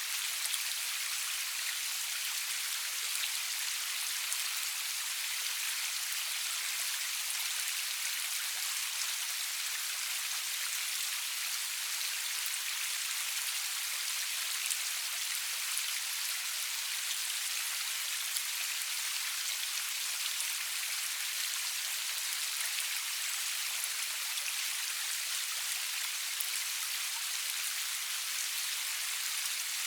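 Steady rain falling, an even hiss made of many fine drop patters, with no thunder.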